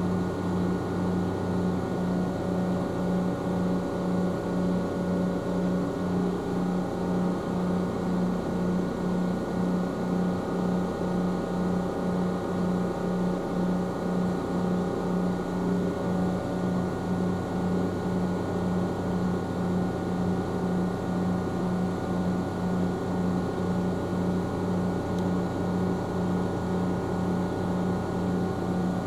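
Ohmi Railway electric train heard from inside the car: a steady mechanical hum with a regular low throb and a few steady higher tones.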